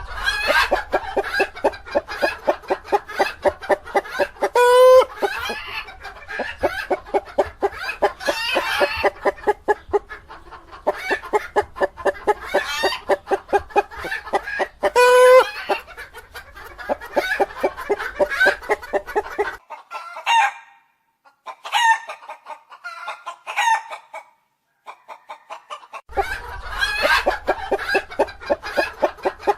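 Chickens clucking in rapid runs of short calls, with louder drawn-out calls now and then. The clucking thins to a few single calls for several seconds about two-thirds of the way through, then picks up again near the end.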